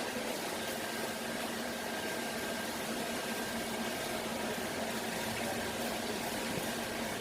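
Steady low mechanical hum with a constant hiss, without knocks or clanks.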